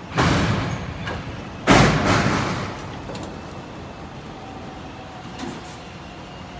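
Semi truck with doubles during hookup: two sudden loud noisy bursts about a second and a half apart, each fading over about a second, over the steady running of the truck.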